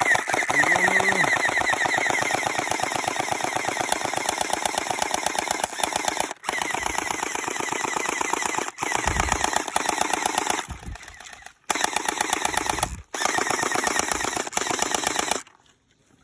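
Electric gel ball blasters firing on full auto in long bursts: a fast, even rattle of shots with a few short breaks, stopping about a second before the end.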